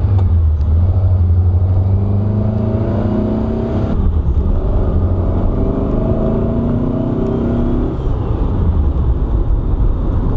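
Air-cooled VW flat-four engine of 1900 cc with dual 40 IDF carburettors, pulling under acceleration, heard from inside the car. Its pitch rises, drops at a gear change about four seconds in, rises again, and eases off near the end.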